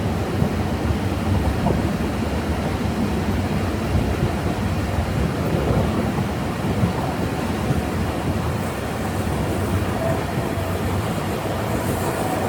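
Isle of Man Steam Railway train running along the narrow-gauge line: a steady rumble of wheels on track.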